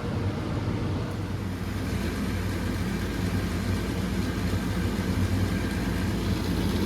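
Carrier 80% gas furnace running during its startup sequence: a steady motor hum with the rush of moving air.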